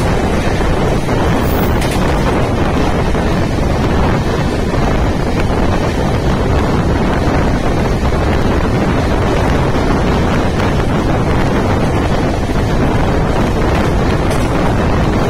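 Steady wind noise buffeting the microphone from a moving train, over the train's continuous running rumble.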